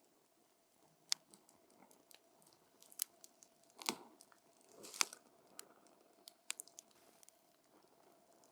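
Wood campfire crackling, with sharp irregular pops and snaps, the loudest two about four and five seconds in.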